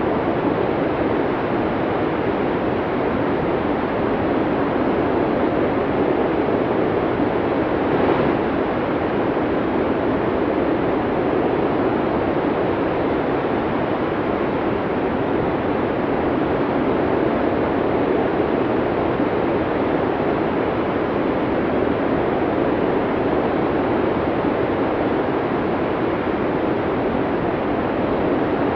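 Snowstorm wind blowing hard, a dense, steady rushing noise.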